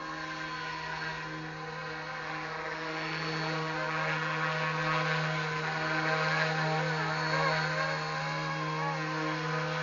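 YuXiang Airwolf (Bell 222 scale) RC helicopter in flight: a steady whine from its motor and rotors, the pitch wavering up and down as it manoeuvres, a little louder from about three seconds in.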